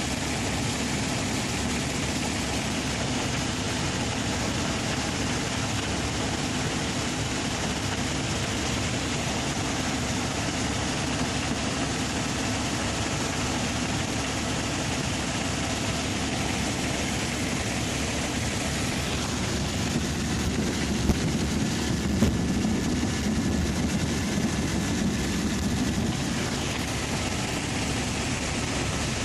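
Helicopter in flight: a steady drone of engine and rotor. The low end swells for several seconds about two-thirds of the way through, with a couple of short knocks.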